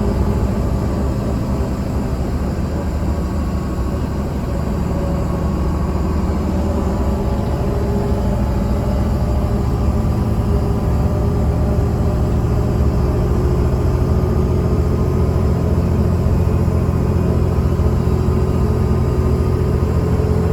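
Mercedes-Benz O307 city bus heard from inside the passenger cabin: its diesel engine runs steadily with a low drone while the bus drives, getting a little louder about eight seconds in.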